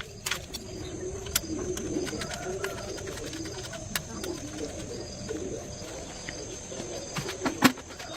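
Birds calling in low, repeated calls, with a few sharp taps or knocks, the loudest near the end.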